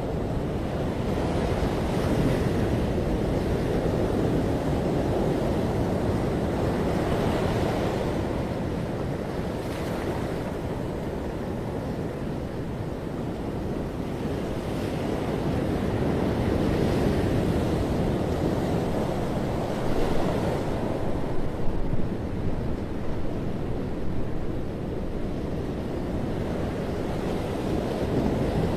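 Ocean surf breaking on a beach, a continuous wash that swells and eases every several seconds, with wind buffeting the microphone in gusts about two-thirds of the way through.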